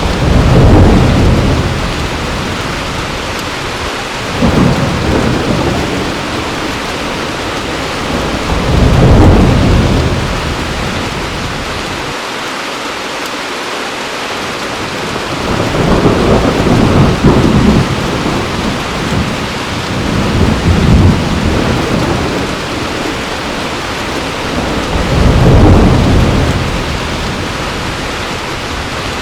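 Heavy rain falling steadily, with about six low rolls of thunder swelling and fading every few seconds.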